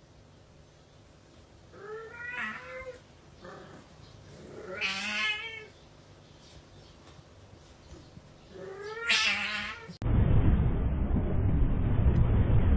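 A cat yowling three times, each a drawn-out caterwaul about a second long with a wavering pitch. Near the end it gives way abruptly to a loud, low rumbling noise.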